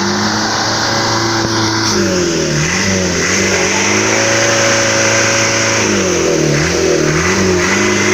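Motorcycle engine revving hard under load while towing a truck on a rope, its pitch repeatedly sagging and climbing back up, twice in quick dips.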